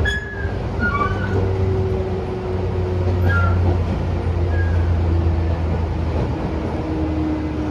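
Tobu 10000-series electric train running, heard from inside the car: a steady low rumble with a faint motor tone that slowly falls in pitch, and a few short high squeaks in the first half.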